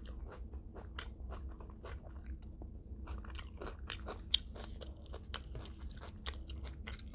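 Close-miked chewing with many small crunches and crackles, a few sharper bites among them, over a low steady hum.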